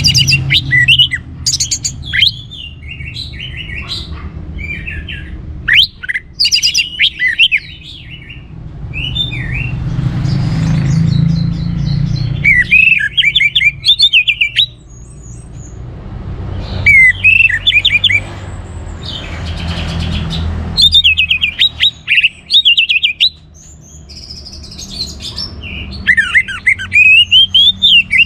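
Orange-headed thrush singing: bursts of rapid, varied warbling phrases, each a second or two long, separated by pauses of a few seconds.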